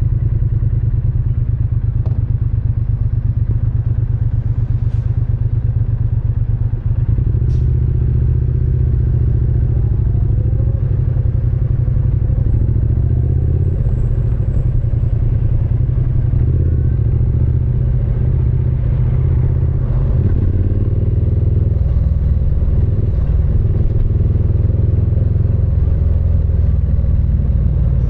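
Triumph Speed Twin 900's parallel-twin engine and exhaust under way, the engine note rising and falling with the revs, with a brief dip in loudness about seven seconds in.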